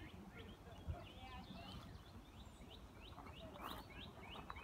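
Faint songbirds chirping in quick, repeated sweeping notes, with a few crunching footsteps on gravel in the latter part.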